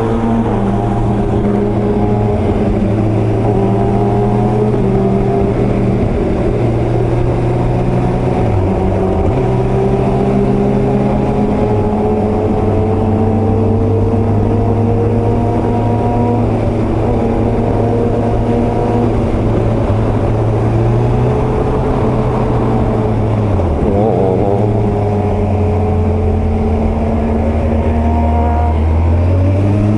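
Motorcycle engines and exhausts heard while riding alongside: a Kawasaki ZZR1400 and a Kawasaki Ninja ZX-25R. The engine notes hold steady and rise slowly, with brief dips in pitch a few times as the throttle is eased or gears change. Near the end they settle to a lower steady note.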